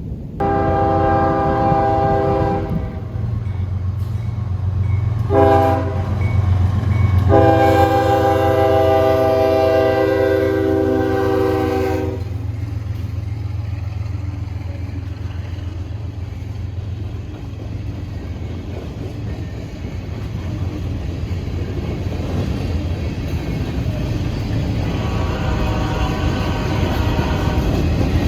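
Diesel freight locomotive's air horn sounding over the steady low rumble of the locomotive and train: a long blast, a short one, then a longer blast, with the horn sounding again near the end.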